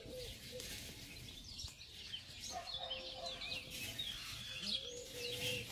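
Small birds chirping and twittering in many short, high calls.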